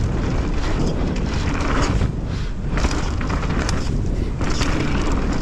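Mountain bike riding fast down a dirt trail: wind buffeting the microphone and tyre noise, with the bike rattling and knocking over bumps throughout.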